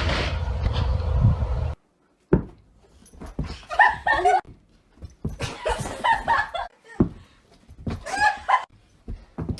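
A dog whimpering in three short bouts of high whines. Before them, a steady low rumble cuts off suddenly about two seconds in.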